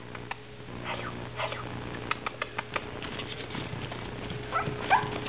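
Nine-week-old Biro and Biewer terrier puppies playing: a quick run of sharp clicks and pattering, followed near the end by a couple of short, high yips.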